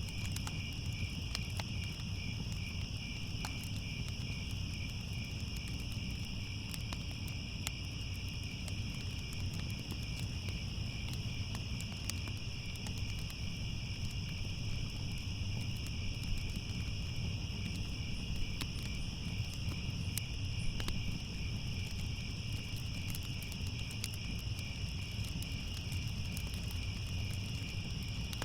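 A steady chorus of crickets chirping, over a low rumble with scattered small crackles from a fire.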